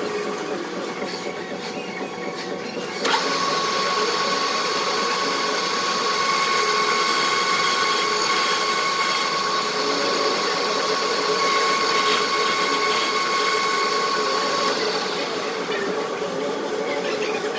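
A metal lathe running while turning a part. About three seconds in, a steady high whine sets in and holds, then fades out near the end.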